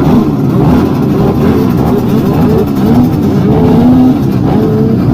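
Several grasstrack racing motorcycle engines revving together, their overlapping pitches rising and falling as the riders work the throttles.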